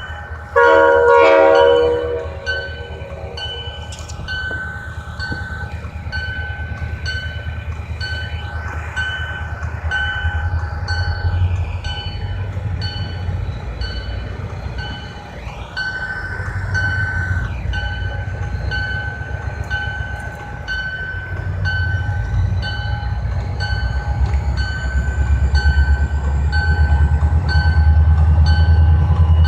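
A short train horn blast, then a grade-crossing bell ringing steadily over the low rumble of a locomotive, which grows louder toward the end as the train moves through the crossing.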